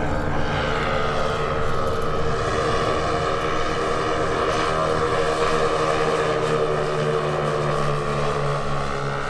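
Twin engines of a quarter-scale RC Beech-18 model airplane running in flight, a steady propeller drone whose pitch slowly falls as the plane passes.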